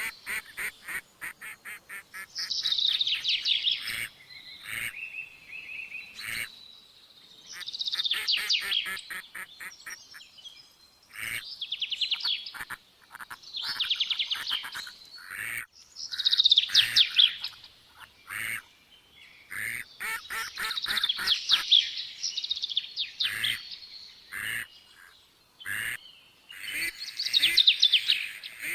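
Birds calling: repeated bursts of rapid, chattering notes, a new burst about every two to three seconds.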